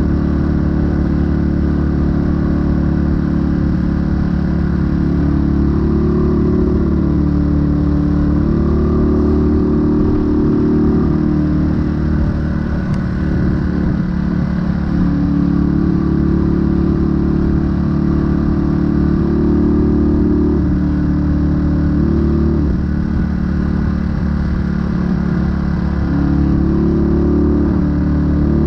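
1968 Honda Dream 250 (CD250) motorcycle engine and exhaust running steadily while riding, the note rising and falling several times with changes in throttle.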